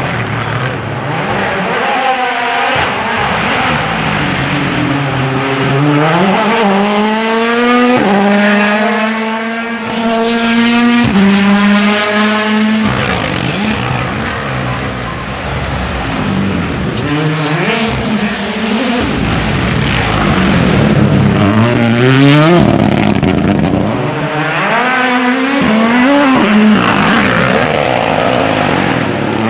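Rally cars driven flat out: turbocharged four-cylinder engines revving up through quick gearshifts, the pitch climbing and then dropping sharply at each upshift, with lifts and rev changes between runs.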